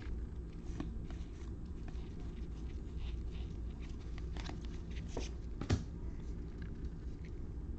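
Trading cards being handled and flipped through: light rustles and soft clicks, with one sharper tap about three-quarters of the way in, over a steady low room hum.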